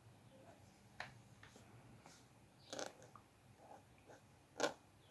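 Faint sounds of drawing at a desk: a few short taps and scratches from pen and paper, the loudest a sharp tap near the end.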